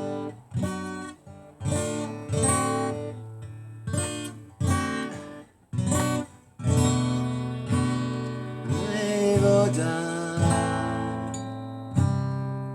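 Acoustic guitar strumming chords in a slow song accompaniment, with no singing, and a held, wavering note about nine seconds in.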